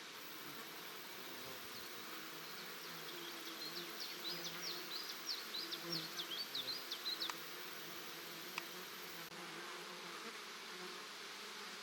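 Flying insects such as bees and flies buzzing, a wavering hum over a steady outdoor hiss. For a few seconds in the middle, a high, rapid series of chirps runs alongside.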